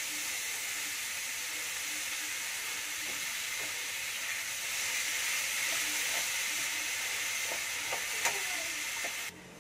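Sliced onions and tomatoes sizzling in hot oil in a metal wok while being stir-fried, with the metal spatula clicking against the pan a few times in the second half. The sizzle cuts off suddenly near the end.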